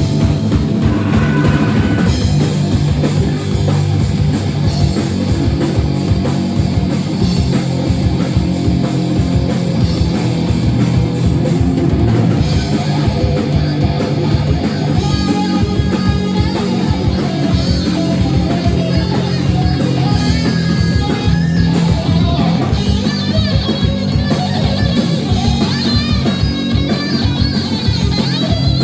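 A rock band playing live with distorted electric guitars, bass and a drum kit keeping a steady beat; no singing is audible.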